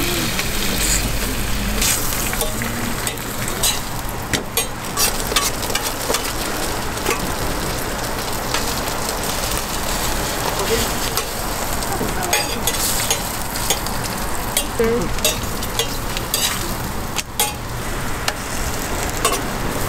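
Food frying and sizzling steadily on a hot griddle, with scattered sharp clicks throughout.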